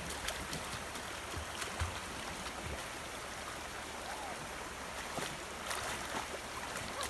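Flowing river water, a steady rush with a few brief clicks or small splashes.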